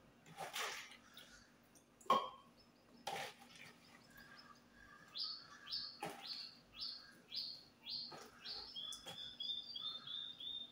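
A bird calling in a run of short falling chirps, about two a second, then a faster, lower run of chirps near the end. Earlier, a few sharp knocks of tomatoes dropped into a glass blender jar, the sharpest about two seconds in.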